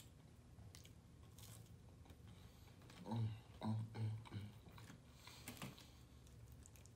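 Close-miked mouth sounds of eating a dipped fried potato wedge: chewing with small crunches, and a few short hummed "mm" sounds of enjoyment about halfway through.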